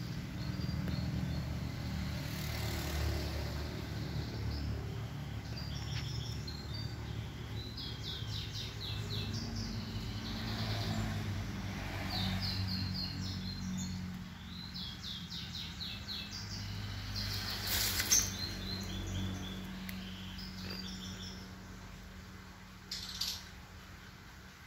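Small birds chirping in short, fast-repeated trills over a low background rumble, with a single sharp click about three-quarters of the way through.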